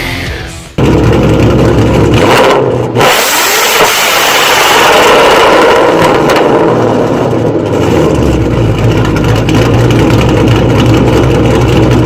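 2013 Mustang GT's 5.0 Coyote V8, breathing through Kooks longtube headers, an off-road X-pipe and Corsa Xtreme axlebacks, starting up: it fires suddenly and loudly about a second in, the revs flare, and from about eight seconds in it settles into a loud, steady idle.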